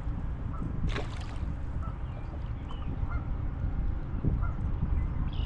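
Birds calling in short, high notes several times over a steady low rumble, with one sharp knock about a second in.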